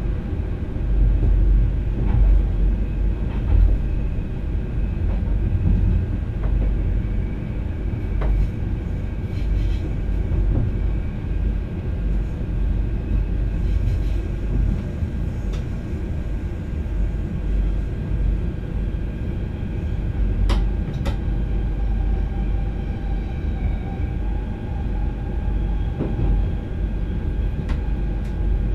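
NS VIRM double-deck electric train heard from inside the driver's cab while running: a steady low rumble with faint steady whining tones. Occasional sharp clicks break through it.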